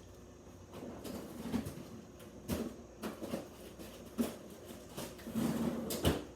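Handling noises: rustling and shuffling, with a few sharp knocks or clicks. The loudest are about two and a half, four and six seconds in.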